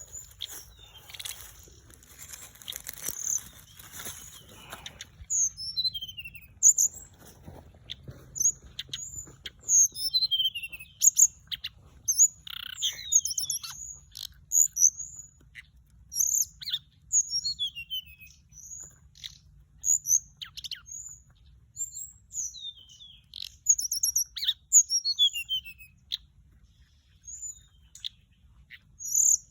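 Flycatcher song of the bird Thai keepers call the orange-breasted, white-bellied flycatcher, played as a lure call: short, high, thin phrases that slide downward in pitch, repeated every second or so. A rustling hiss sits under it for the first few seconds.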